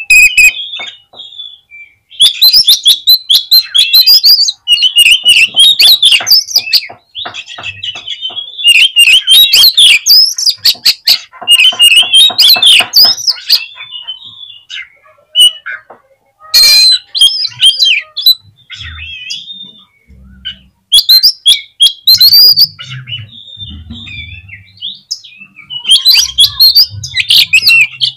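Oriental magpie-robin (kacer) singing in loud, excited bursts of rapid whistles and harsh rattling notes, a few seconds each with short pauses between. This is the agitated, aggressive song used as a 'pancingan' to provoke a male kacer into singing.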